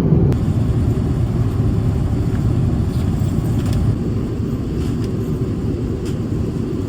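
Airliner cabin noise: a steady low rumble from the engines and airflow, with a few faint ticks.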